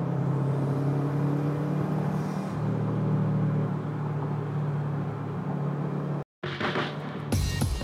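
2011 Subaru WRX's turbocharged 2.5-litre flat-four, fitted with a COBB intake and Stage 1 tune, running at fairly steady revs, heard from inside the cabin. Near the end the sound cuts out for a moment, a short whoosh follows, and music with a steady beat begins.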